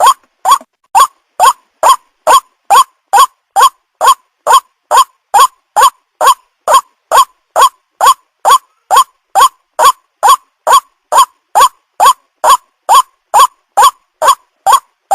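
White-breasted waterhen call, a short note repeated evenly about two to three times a second, each note sliding up in pitch. It is a lure recording played to draw waterhens in for trapping.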